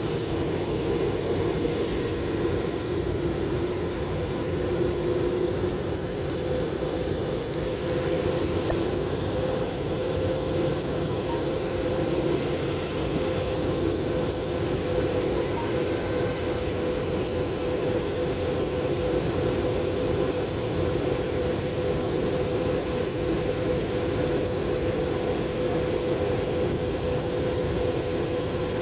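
Steady airliner cabin noise during the descent: a constant rush of engines and airflow with a steady hum over it.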